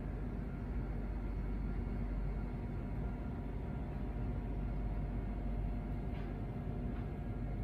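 Steady indoor hum with a few faint steady whining tones, the running noise of room machinery such as refrigeration or ventilation, with a faint brief click about six seconds in.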